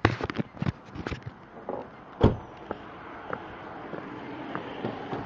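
Handling noises around a car: a quick run of clicks and knocks, with one loud thump a little over two seconds in, then a steady hiss of background noise.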